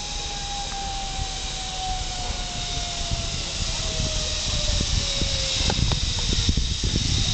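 Zip-line trolley running along the cable, with a whine that falls slowly in pitch as the rider slows. Wind buffeting the microphone grows stronger toward the end.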